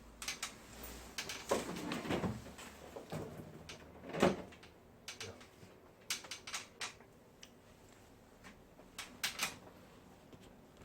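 A series of sharp clicks, knocks and rattles of hard objects being handled, with the loudest knocks in the first half and a quick cluster of clicks about six and nine seconds in.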